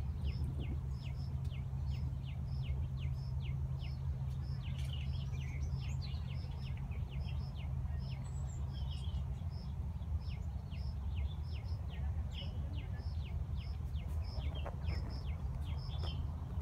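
A bird calling over and over in the undergrowth: short, high, falling notes about three a second, over a low steady rumble.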